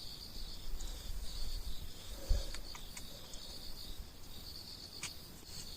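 Crickets chirring steadily in a continuous high trill, with a few faint clicks and a soft low thump a little over two seconds in.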